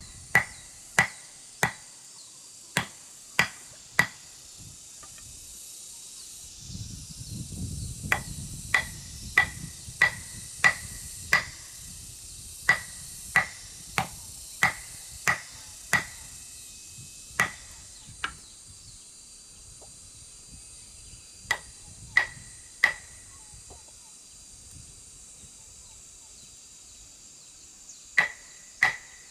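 Repeated sharp hand-tool strikes, each with a short ringing tone, coming in runs of three to six about two-thirds of a second apart with pauses between runs. Insects buzz steadily throughout.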